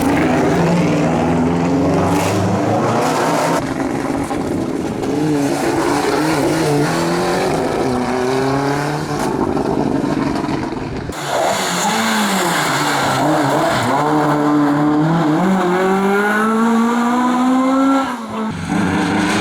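Historic rally car engines at full throttle, revving up through the gears with rising pitch and dropping back at each shift, with some tyre squeal. The sound changes abruptly three times as one car gives way to another.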